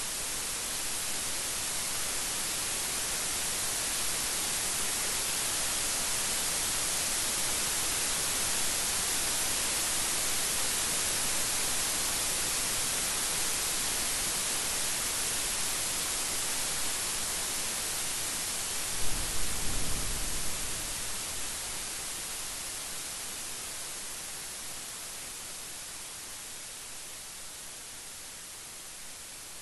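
Steady rain hiss, with a short crackling clap of thunder and low rumble about two-thirds of the way through; the rain eases off a little near the end.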